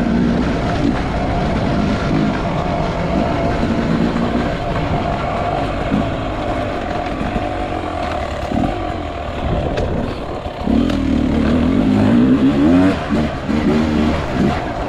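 Enduro motorcycle engine revving up and down as it is ridden, its pitch rising and falling with the throttle; the revs are strongest about eleven seconds in.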